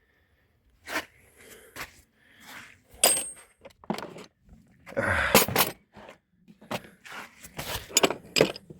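Metal tools and parts clinking and scraping while rummaging for a bolt: a string of sharp clinks, a longer scraping rattle about five seconds in, and a quick run of clicks near the end.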